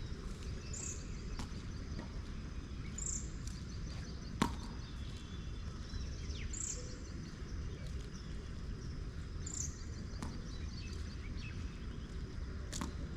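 Steady low outdoor rumble, with a bird giving a short high call every two to three seconds. One sharp knock stands out about four seconds in.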